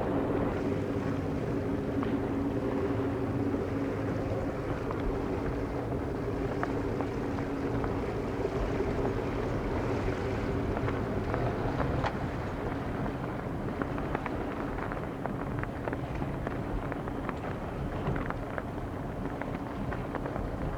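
Motorboat engine running steadily, mixed with wind and water noise; the engine note eases off about twelve seconds in.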